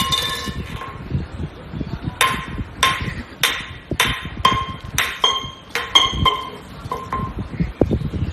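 A series of sharp taps or knocks on something hard that rings briefly after each strike, about a dozen in all, coming faster and more evenly from about two seconds in.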